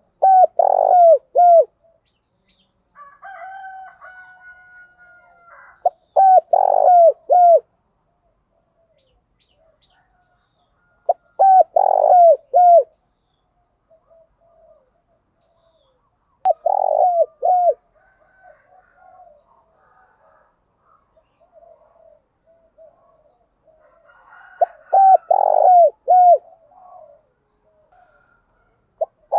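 Spotted dove cooing, a phrase of three or four short notes repeated five times, roughly every five to six seconds, with fainter bird calls between the phrases.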